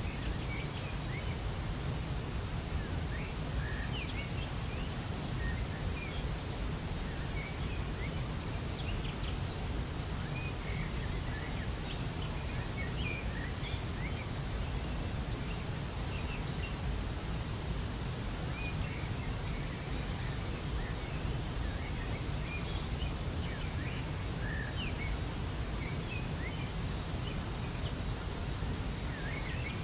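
Waterfall giving a steady rush of falling water, with many short bird chirps scattered throughout.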